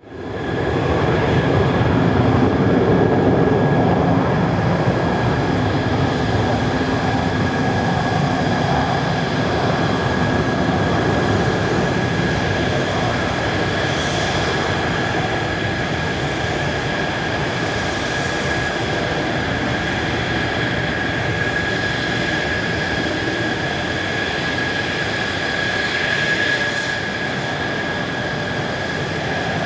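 Jet engine of a Mitsubishi F-2A fighter (a single General Electric F110 turbofan) running, a continuous loud rush of engine noise with a steady high whine.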